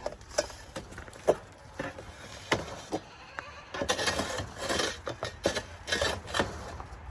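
Goats bleating several times, among a few sharp knocks and clatters.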